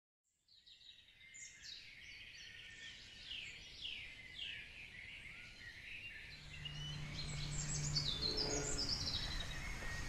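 Wild birds singing in woodland, many quick high chirps and falling trills overlapping. A low steady hum joins for about two seconds just past the middle.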